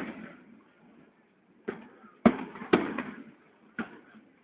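Aerial fireworks going off: a series of about five sharp bangs, each trailing off briefly.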